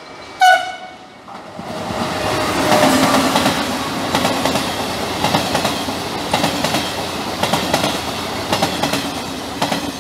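Trenitalia E.464 electric locomotive gives one short horn blast about half a second in. From about a second and a half, the locomotive and its passenger coaches pass close by with a steady rumble and many sharp clicks from the wheels running over the rail joints.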